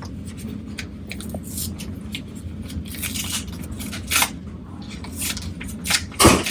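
Clicks and rustling handling noises as a cabin door is unlocked and opened, with a louder knock about six seconds in, over a steady low hum.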